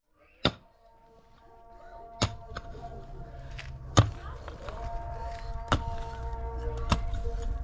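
Sharp knocks, one every second or two, over a low rumble and faint steady tones. It opens with a single click about half a second in.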